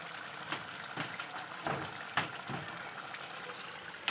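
Chicken curry bubbling and sizzling in a frying pan, a steady hiss with a few sharp clicks, the loudest near the end.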